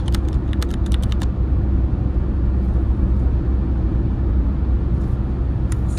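Steady low road-and-engine rumble heard inside a moving car's cabin, with a few sharp light clicks in the first second and again near the end.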